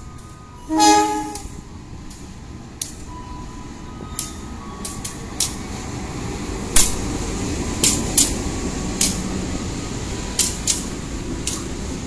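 Diesel locomotive sounding a short horn blast about a second in, then the passenger train rolling past with a rumble that grows louder and sharp clacks of the wheels over rail joints.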